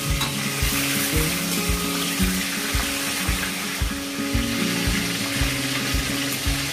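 Chicken pieces sizzling steadily as they fry in hot refined vegetable oil in a wok, mixed with background music that has a beat about twice a second and held low notes.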